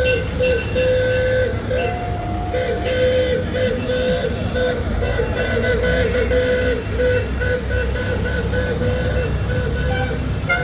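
Steady low engine rumble of tractors running, with a tune playing over it: a wavering, held melody line.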